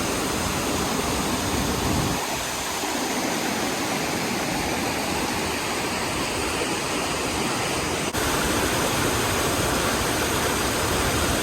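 Waterfall rushing: a steady, even noise of falling water, which changes abruptly in tone twice.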